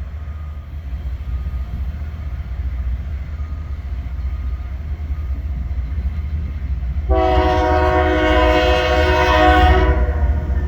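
Diesel freight train rumbling steadily, then one long horn blast of about three seconds from the lead locomotive, a Canadian Pacific unit, starting about seven seconds in. The horn sounds as a chord of several held notes.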